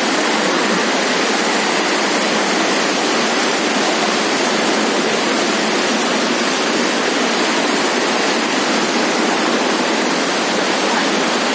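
Floodwater rushing: a loud, steady noise of fast-moving water that does not change.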